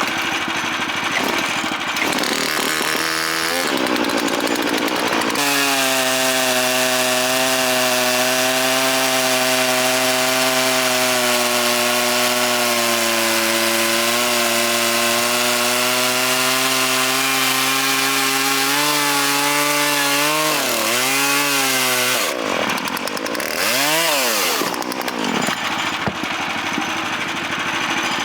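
Gas chainsaw cutting wood, its engine held steady under load for most of the time. Near the end the engine speed drops and climbs again a couple of times.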